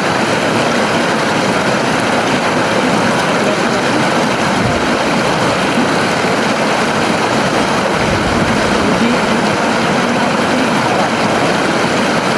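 River water flowing steadily, a constant rushing noise with no breaks.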